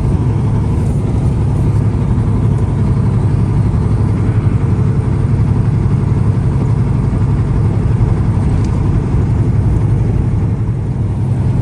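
Truck engine running steadily, a constant low drone.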